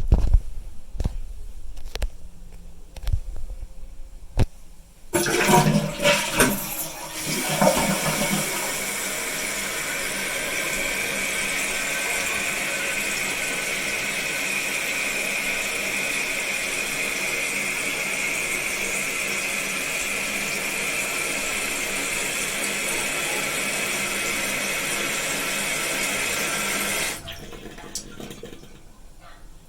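A few sharp clicks, then a Jacuzzi Lyndsay toilet flushing about five seconds in with an uneven rush of water. The tank then refills with a steady hiss from the fill valve that shuts off suddenly near the end.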